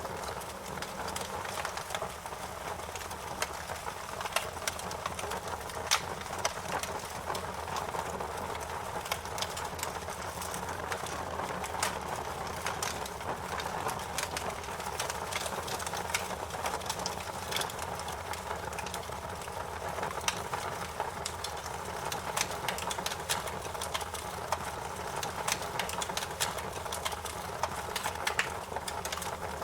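Campfire crackling: a steady rush of burning wood with frequent small, sharp pops and snaps at irregular intervals.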